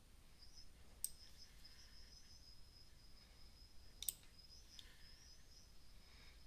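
Near silence broken by two sharp clicks, about a second in and about four seconds in, over a faint, high, warbling chirp.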